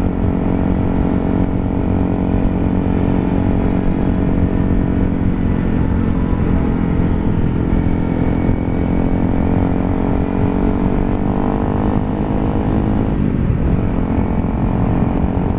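Honda CRF300 Rally's single-cylinder four-stroke engine running at a steady cruise under way, with wind rush. The engine pitch climbs a little and then briefly dips about thirteen seconds in.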